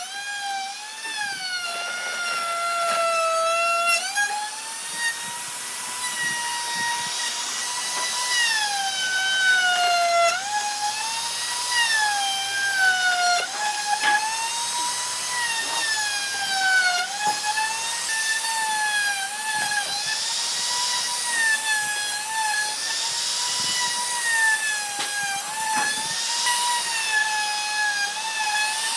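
Electric power tool's motor whining steadily, its pitch dipping and recovering again and again as it works wood under varying load.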